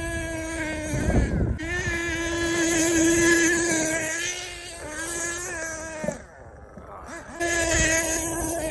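HPI Savage X 4.6 monster truck's small two-stroke nitro engine running at high revs with a high-pitched buzz. It drops off throttle twice, briefly and then for just over a second, before opening up again.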